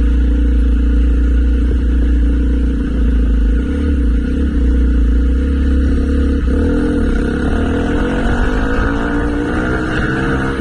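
Motorcycle engine running at a steady speed, then pulling harder with its pitch rising from about seven seconds in as the bike accelerates.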